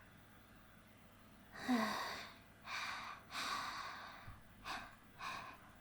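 A woman's gasp with a short falling voiced note about two seconds in, followed by several breathy sighs and heavy breaths.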